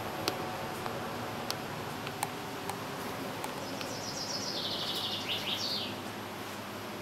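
A small bird chirping outside, a quick trill of high notes with a few short downward swoops about four seconds in, over a steady background hiss with a few faint clicks.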